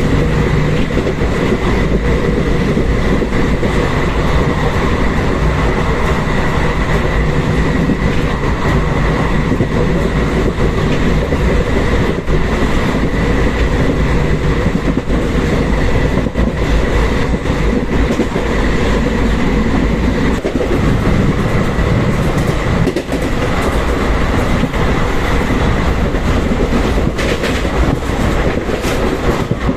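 Suryanagari Express passenger train running past at speed, its coaches' wheels clattering steadily over the rail joints.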